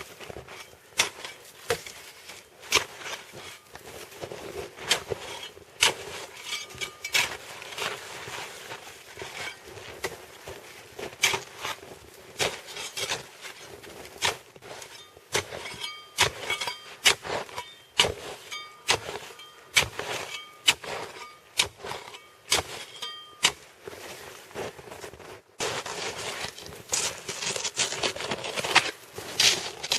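Deep snow being dug out and cleared down to the ground: repeated irregular crunching, scraping strokes, about one or two a second.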